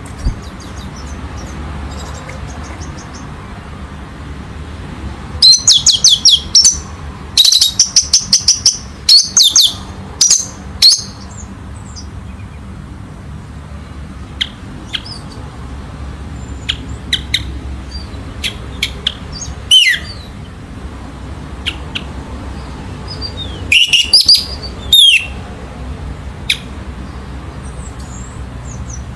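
Orange-headed thrush singing: loud clusters of rapid, high, trilling notes, with scattered single chirps in between, over a steady low background hum.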